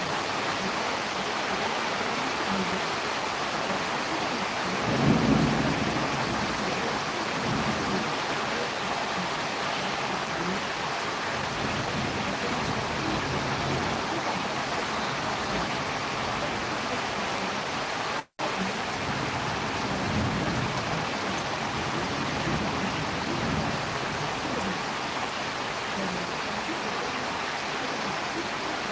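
Steady rain falling during a storm. A short low rumble swells up about five seconds in, and softer low rumbles come later. The sound cuts out for a split second just past the middle.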